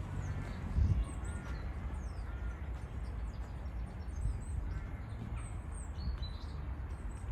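Small birds chirping in many short, quick high calls over a steady low background rumble.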